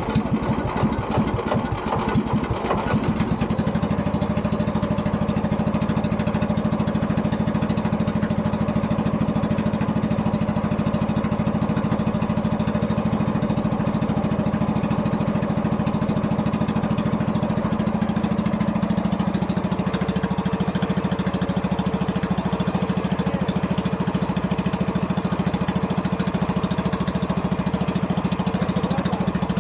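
An old boat engine just started: uneven for the first few seconds, then running steadily, with a shift in its note about two-thirds of the way through.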